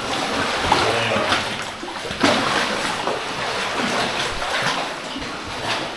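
Water splashing and sloshing in irregular bursts, as of people wading through a cave stream.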